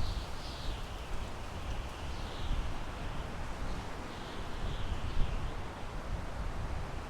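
Wind blowing through pine trees: a steady rushing hiss that swells and eases in soft gusts over a low rumble of wind on the microphone, with a brief louder buffet about five seconds in.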